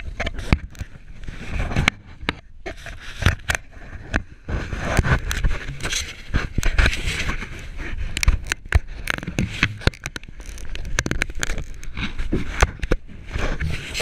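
Irregular knocks, clatters and scrapes over a rushing noise, from a kayak and its paddle being handled.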